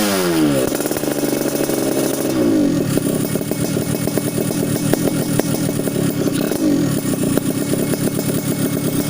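Motorcycle running through a GRM aftermarket exhaust. The revs fall back from a throttle blip to idle about half a second in, then the engine idles with a fast, even exhaust pulse. The idle swells briefly twice with light throttle.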